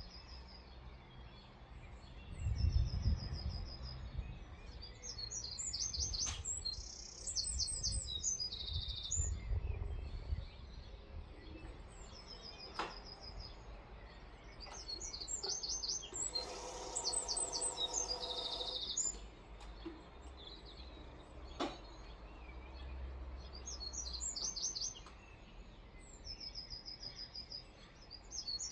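Songbirds calling by a river: short, rapid series of high chirps repeated again and again, with several calls overlapping. A low rumbling noise sits under the first third, and a brief hiss with a low hum comes about two-thirds of the way in.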